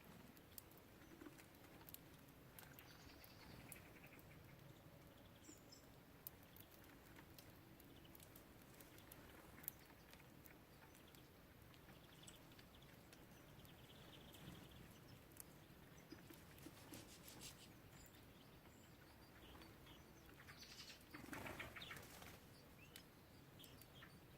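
Faint sounds of small songbirds at a feeder: scattered small clicks and taps, a few brief high chirps, and a short flutter of wings about three seconds before the end.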